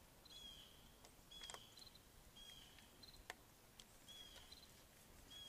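Near silence, with a bird calling faintly in the background: a short high call repeated about once a second. A couple of faint sharp clicks.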